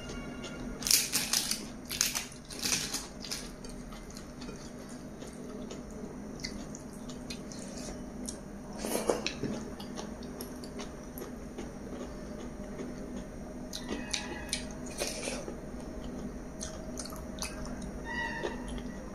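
Close-miked eating sounds of chicken biryani being eaten by hand: wet chewing and lip smacks. Clusters of sharp mouth clicks come about a second in, around nine seconds, and again around fourteen to fifteen seconds.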